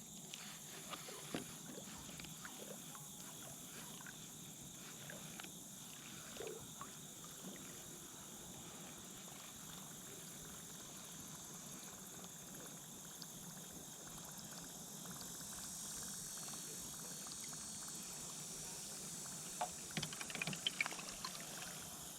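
Faint water trickling and lapping around a kayak, with scattered light clicks and knocks, a cluster of them near the end.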